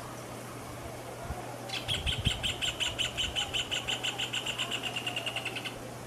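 Rufous hornero calling: a fast run of sharp notes starts about two seconds in, quickens, and fades near the end, lasting about four seconds.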